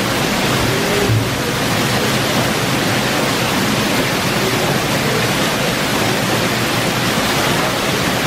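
Heavy rain: a dense, steady rush of water pouring off a roof edge in streams and splashing onto a tiled patio.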